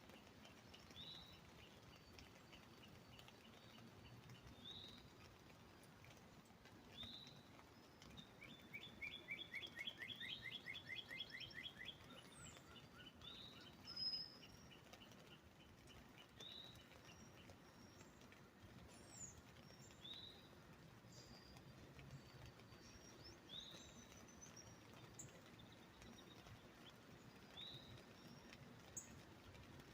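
Songbirds calling in quiet surroundings: short rising chirps repeated every couple of seconds, with a louder rapid trill of evenly spaced notes lasting about three seconds near the middle.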